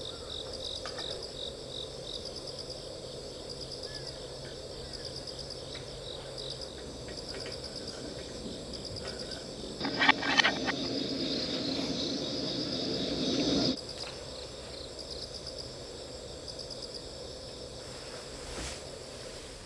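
Insects chirping steadily in fast, even pulses. For about four seconds in the middle, a louder noisy rustle with sharp crackles covers them and then stops abruptly.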